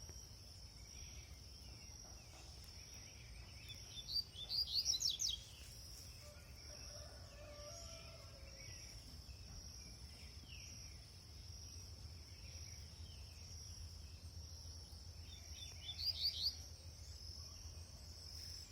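Double-collared seedeater (coleiro) singing two short, fast phrases of quick sweeping whistles, about four seconds in and again near the end, over a steady high insect drone.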